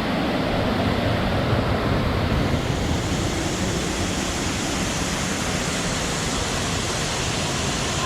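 Steady wind rushing over the microphone, with a low rumble, and a hiss that grows stronger about two and a half seconds in.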